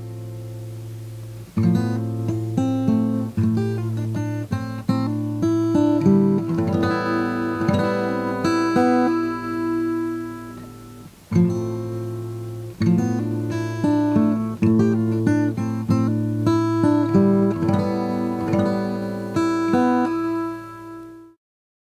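Acoustic guitar music: plucked and strummed notes over a steady low note, breaking off briefly about halfway and stopping abruptly near the end.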